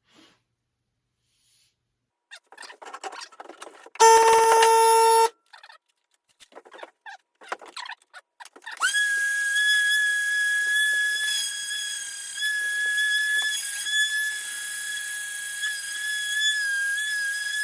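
A small power tool running with a steady high whine from about nine seconds in, while the axe handle is shaped to seat the head. Before it come scattered short scraping strokes and a loud steady tone lasting just over a second.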